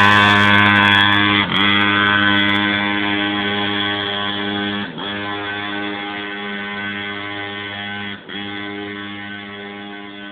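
Small two-stroke pocket-bike engine running hard at high revs, its pitch dropping briefly three times as the throttle is eased, and slowly fading as the bike rides away.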